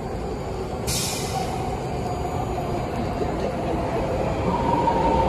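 BART train running into the elevated station: low rumble and a whine that slowly falls in pitch, both growing louder near the end as the train comes closer. A short burst of air hiss about a second in.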